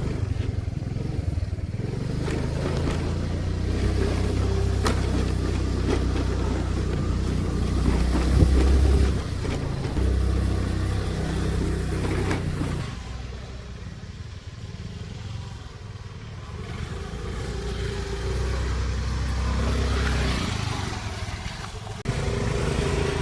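A vehicle's engine running while driving, its revs and loudness rising and falling, with a quieter stretch about two-thirds of the way through.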